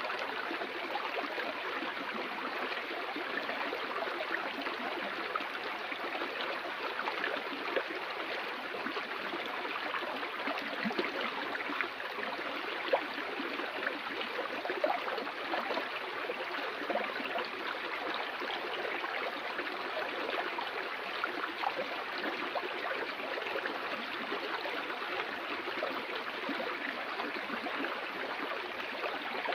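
Flowing stream water, a steady rush with small flickering splashes throughout.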